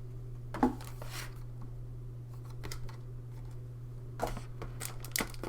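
Printed cardboard game dashboards being handled and set down: a few brief rustles and light taps, the loudest about half a second in, over a steady low hum.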